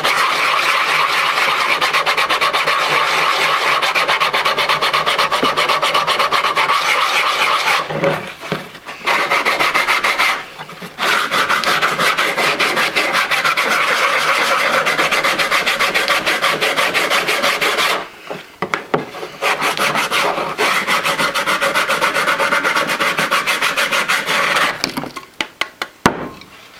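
Sandpaper rubbed by hand over wood in rapid back-and-forth strokes, sanding marks off the surface. The sanding breaks off briefly twice, pauses for a couple of seconds past the middle, and stops shortly before the end.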